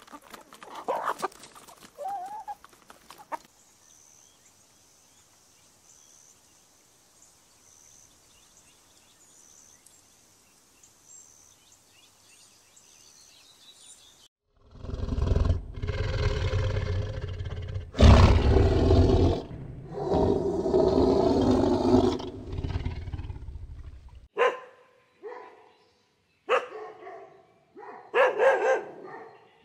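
Chickens clucking briefly, then near quiet, then about ten seconds of a loud, deep, rough animal roar with a few short breaks, and near the end a Shiba Inu dog giving several short barks.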